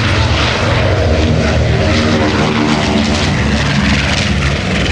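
Four Wright Cyclone radial piston engines of a B-17 Flying Fortress running loud and steady, a deep, many-toned propeller drone.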